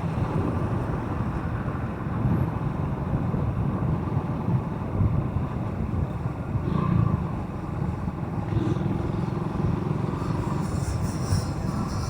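Motorcycle running while being ridden along a road, a steady low rumble.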